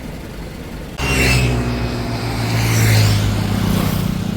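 Lorry diesel engine running, coming in abruptly about a second in as a steady low hum with a hiss over it.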